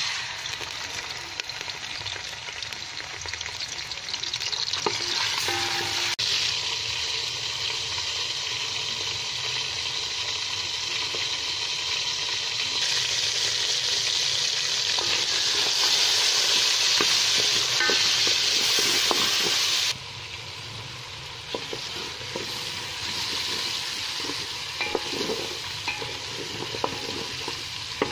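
Food frying in hot oil in a cooking pot, sizzling steadily while being stirred. The sizzle grows louder partway through, then drops suddenly about twenty seconds in, after which light knocks of the stirring stand out.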